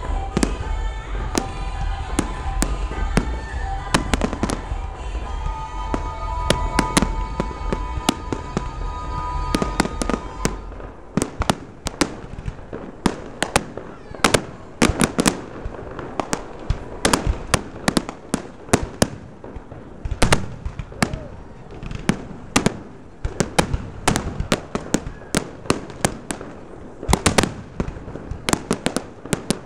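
Fireworks display: a rapid, irregular series of sharp bangs and crackling bursts. Music with heavy bass plays along for roughly the first ten seconds, then stops, leaving the fireworks alone.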